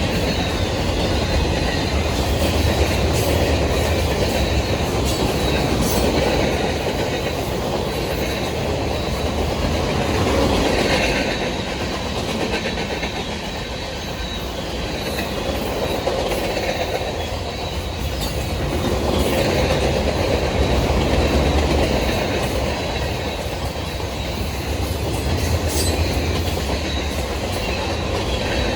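Freight train cars rolling past on the rails, wheels clicking steadily over the rail joints, the loudness swelling and dipping gently as the cars go by.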